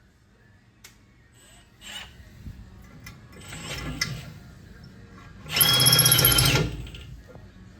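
A handheld power tool runs in short bursts: a quieter buzzing run around the middle, then a louder run of about a second with a steady high whine that stops sharply.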